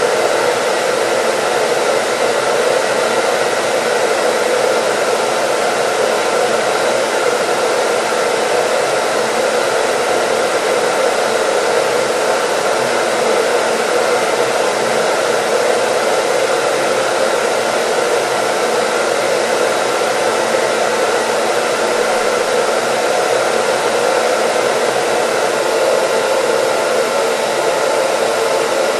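Electric hair dryer running continuously at a steady speed: an even rush of blown air with a faint motor whine, unchanging throughout.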